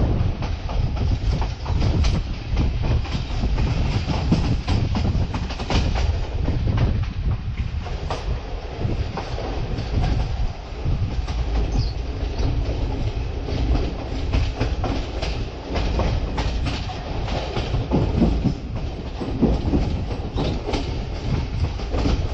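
Passenger train running along the tracks, heard from on board: a steady low rumble with frequent, irregular clacks of wheels over rail joints.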